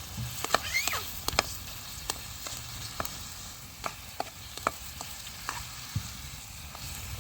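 Food frying in a pan with a steady sizzle, and a utensil knocking against the pan about a dozen times as the food is stirred.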